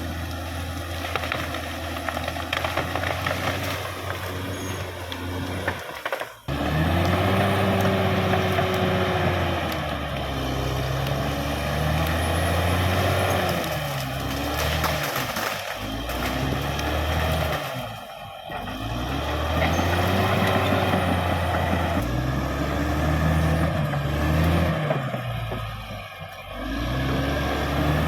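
Caterpillar D6R XL bulldozer's diesel engine working under load, its pitch rising and falling again and again as the load changes. There is a sudden break about six seconds in.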